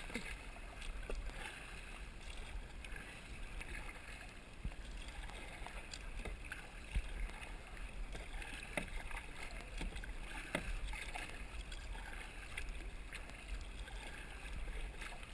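Kayak on a river: steady water noise around the hull with occasional light knocks and clicks, over a low rumble.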